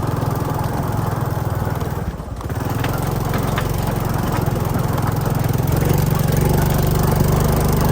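Small motorcycle engine running under way. It eases off briefly about two seconds in, then pulls again and grows a little louder near the end.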